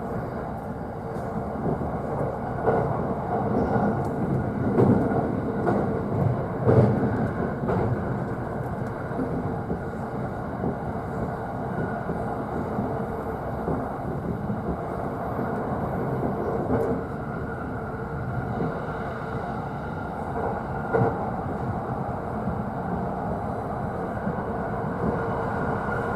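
JR East E531 series electric train running, heard from the upper deck of a bilevel Green car: a steady rumble of wheels on rail. A run of sharp clacks from the wheels over rail joints comes in the first several seconds, then the running evens out.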